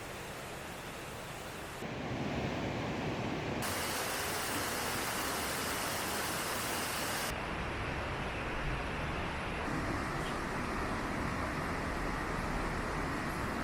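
Steady rushing outdoor noise with no clear single source, changing abruptly in loudness and tone several times, as at cuts between shots.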